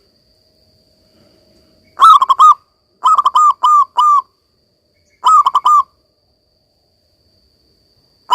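Zebra dove (perkutut) singing its rapid staccato cooing song: three loud phrases of quick clipped notes, with a fourth phrase starting right at the end.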